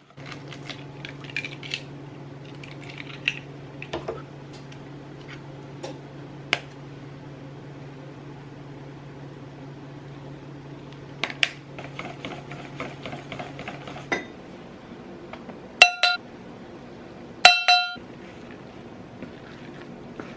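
Kitchen work sounds: dishes and utensils clinking and knocking over a steady low appliance hum that stops about 14 seconds in. Two short, loud pitched tones follow about a second and a half apart.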